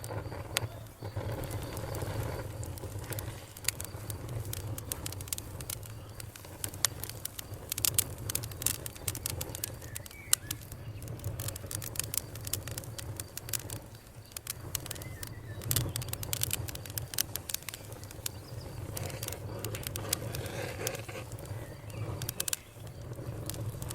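Campfire burning, crackling with frequent sharp pops and snaps over a steady low rumble.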